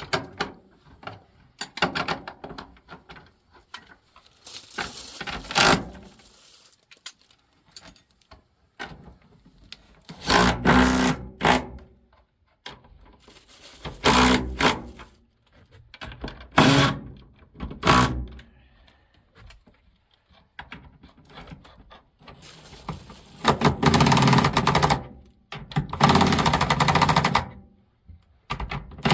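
Power drill-driver running in short bursts of a second or two, about eight runs with pauses, driving bolts with spring lock washers to pull timber joists tight together.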